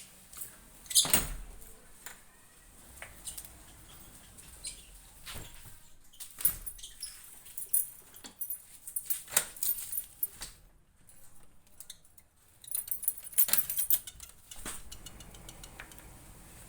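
Small birds chirping in short, very high-pitched spells three times, over scattered knocks and clicks.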